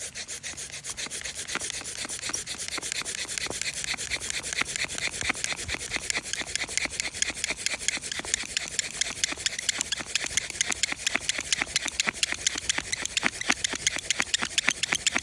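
Mini bow drill being worked: the wooden spindle rubs in the hearth board with rapid, steady back-and-forth strokes, making a dry rasping that grows a little louder as it goes on.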